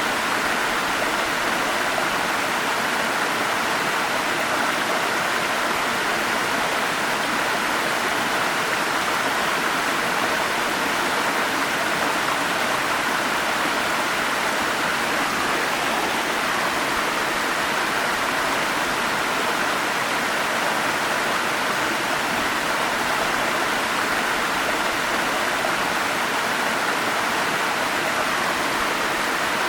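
Forest stream and small waterfalls flowing, a steady rushing and splashing of water with no breaks.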